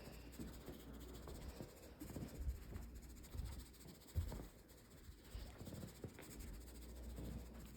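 Faint rustling and light scattered taps of carpet freshener powder being shaken out of its container onto the carpet.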